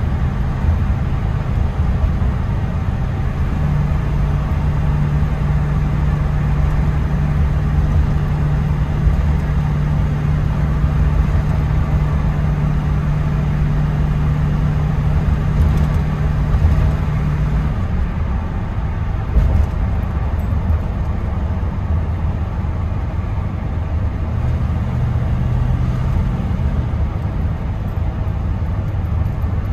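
Tire and road noise inside the cab of a 1979 Chevy K10 pickup at highway cruising speed, with the rear window open, under a low steady drone from its Blueprint 400 small-block V8 and exhaust. The drone's pitch shifts slightly a few times.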